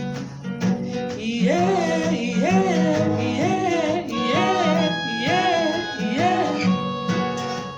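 Singing over guitar accompaniment: a voice repeats the same short wordless phrase, rising then falling, several times in a row.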